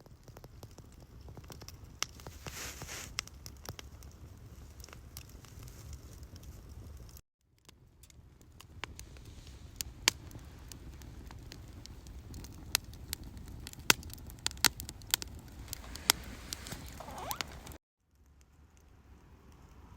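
Wood campfire crackling, with many sharp pops and snaps scattered over a steady low rumble. The sound drops out abruptly twice, at about 7 and 18 seconds in.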